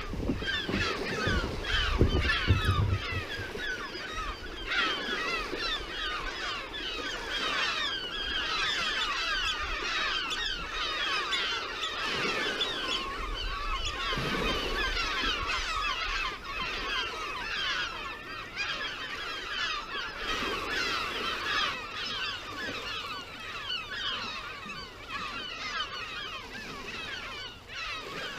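A large flock of birds calling continuously, with many short calls overlapping one another. A low rumble runs under the first few seconds.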